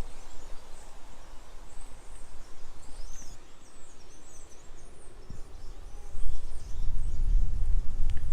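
Outdoor ambience with a steady low rumble that swells about six seconds in, and a few faint high bird chirps about three seconds in.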